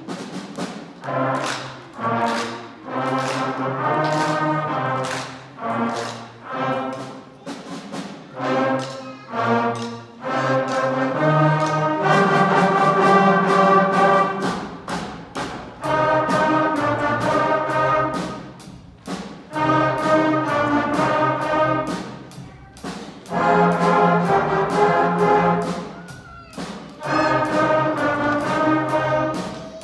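Sixth-grade concert band playing a blues piece, brass to the fore: short accented chords again and again, broken by a few longer held chords.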